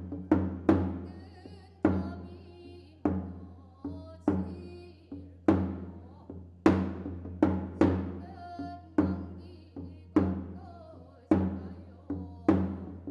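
Percussion music: deep drum strikes about once a second at uneven spacing, each ringing out and fading, with faint high wavering tones between some of them.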